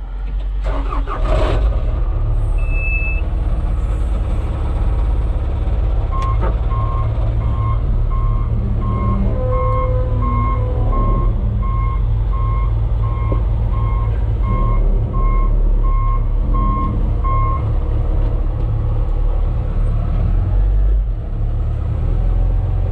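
Wheel loader's diesel engine running with a steady low rumble. About six seconds in, a reverse beeper starts, about one and a half beeps a second for roughly eleven seconds, then stops.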